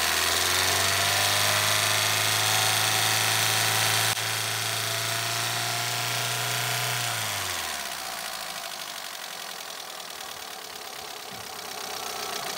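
Kia Morning's rebuilt engine idling in the open engine bay, a steady hum with a whirring hiss, sounding smooth and quiet. About seven seconds in, the whirring winds down in pitch and the sound drops quieter while the engine keeps running.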